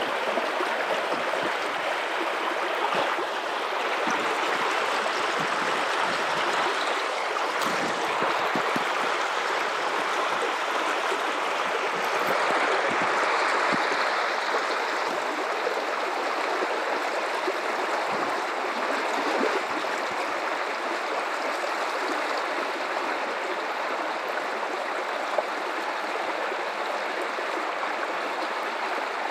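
River water flowing and gurgling over rocks in a steady rush.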